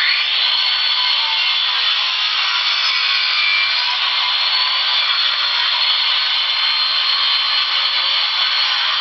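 Power saw cutting into the floor around a wedged jackhammer bit to free it, starting suddenly and running at a steady, unbroken pitch with no hammering rhythm.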